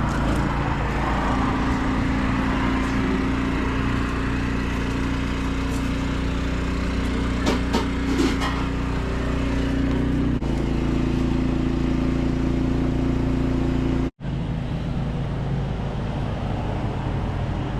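Engine running steadily with a low, even hum. The hum shifts abruptly about ten seconds in and cuts out for a moment about fourteen seconds in.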